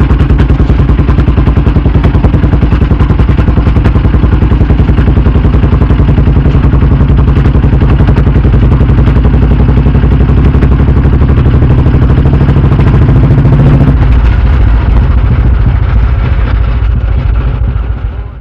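Royal Enfield Bullet 350 single-cylinder engine running, its exhaust giving a fast, even train of pulses. The note shifts about fourteen seconds in and then fades away over the last few seconds.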